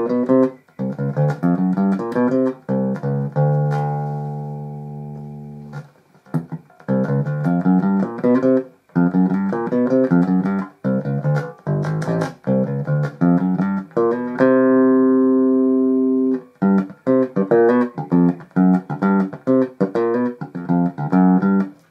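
Electric bass guitar played through a home-built mixer preamp's input channel: a run of quick plucked notes, with a long held note left ringing about four seconds in and again about fourteen seconds in.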